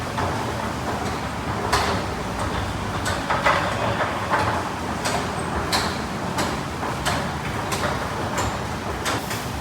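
Car wash tunnel equipment running: a steady noise of spraying water and machinery, broken by frequent short hisses and clanks.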